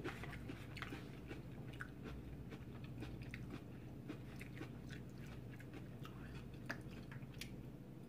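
Faint close-up chewing of veggie nachos made on raw bell pepper pieces: soft crunching with scattered wet mouth clicks.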